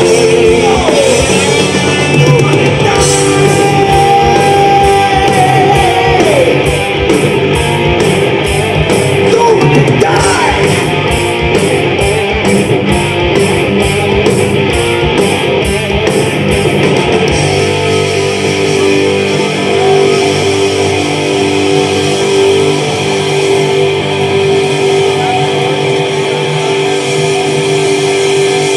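Live heavy metal band playing loud electric guitars over drums, with evenly spaced cymbal hits, two or three a second. A little past halfway the drums drop out and the guitars hold a long ringing chord.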